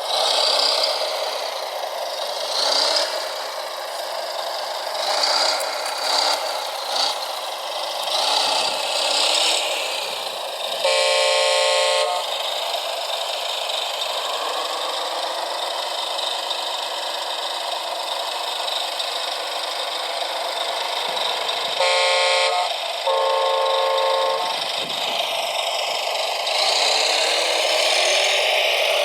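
Horn of a radio-controlled truck sounding three times: one blast of about a second, then two shorter blasts near the end. Under it, the electric motors and gearboxes of RC construction machines whine, their pitch rising and falling as they work.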